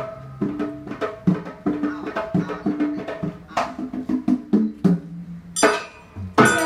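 Live Banyuwangi Gandrung ensemble music: drums and struck pitched percussion play a rhythmic pattern, with sharp ringing clashes about halfway through and near the end, and the full ensemble comes in louder at the very end.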